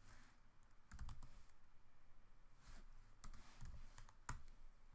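Faint, scattered clicks of a computer keyboard and mouse, about five separate clicks as a value is entered.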